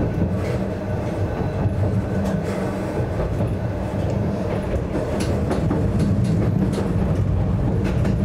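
Yokkaichi Asunarou Railway narrow-gauge electric railcar running, heard from inside the driver's cab: a steady low hum with scattered clicks from the wheels on the rails. It grows slightly louder about halfway through.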